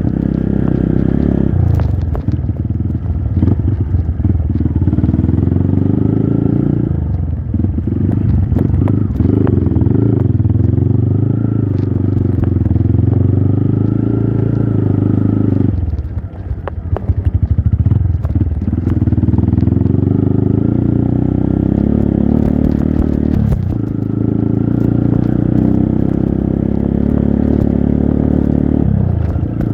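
Trail motorcycle engine running under load, its pitch rising and falling with the throttle. It drops off briefly about 2, 7 and 16 seconds in. Scattered clicks and clatter run along with it.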